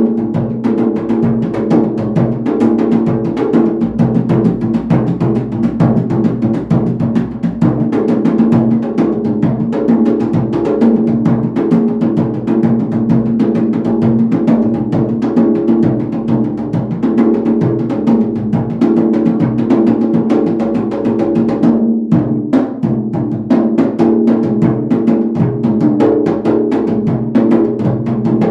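Atabaque hand drum struck with bare hands on its leather head, a fast, continuous warm-up rhythm, with a brief break about two-thirds of the way through.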